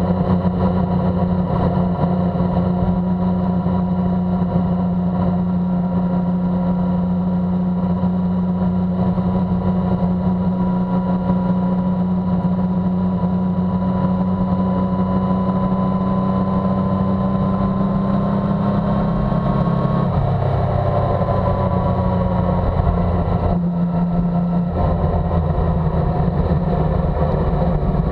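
Motorcycle engine running steadily at a road cruise of about 50 mph. About 20 seconds in the engine note drops as the bike slows, with a brief break in the note a few seconds later.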